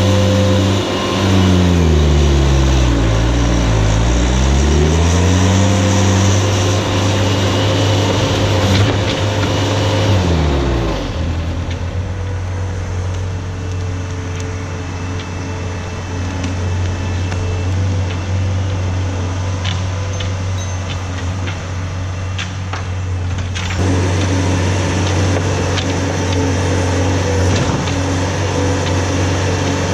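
Skid steer engine running steadily. Its pitch drops and climbs back twice in the first ten seconds or so as the engine is loaded and revved.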